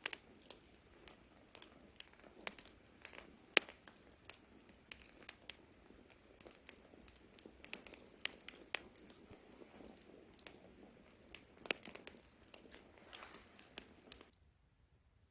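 Wood campfire crackling: irregular sharp pops and snaps over a soft steady hiss of burning wood. The sound drops out to silence for about a second near the end.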